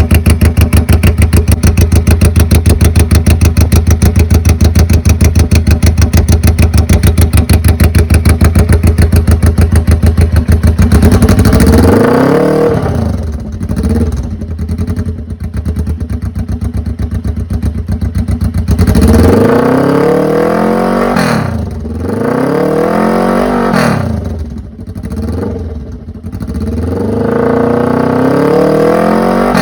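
Suzuki GS400's air-cooled parallel-twin engine through straight-through open pipes, very loud: a steady, evenly pulsing idle, then blipped up and back down several times, with a longer held rev near the end.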